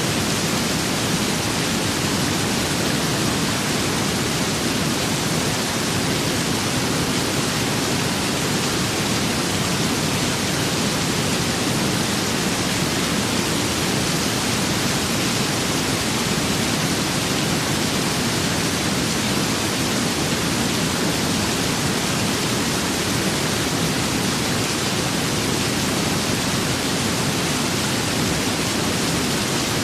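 Steady rain with wind, a dense, even hiss with no single drops, gusts or thunder standing out.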